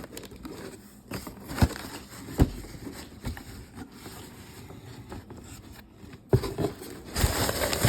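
Packaging being handled during unboxing: cardboard and paper knocking and rustling, with a few sharp knocks and a louder stretch of rustling near the end.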